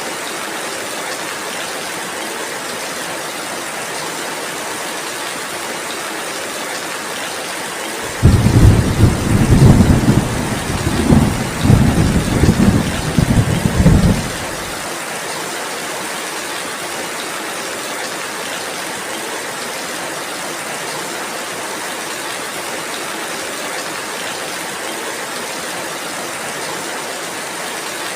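Steady rain, with a loud, low roll of thunder coming in suddenly about a third of the way in and rumbling in waves for about six seconds before it stops.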